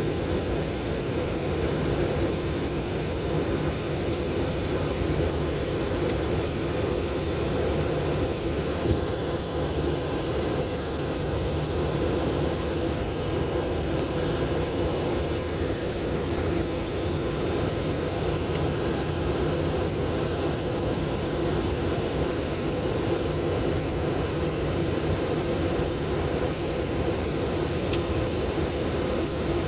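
Steady cabin noise of a passenger airliner in descent: an even engine and airflow drone with a faint high whine above it.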